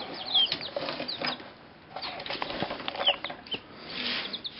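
Young chickens peeping in short, high, falling chirps while scuffling and flapping their wings as they scramble for a worm.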